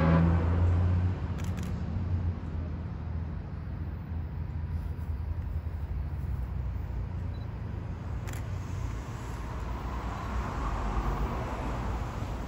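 Diesel locomotive of a loaded coal train approaching, with a steady low engine rumble. The last of its horn chord cuts off at the very start, and a rushing wheel-and-rail noise builds near the end as the train draws closer.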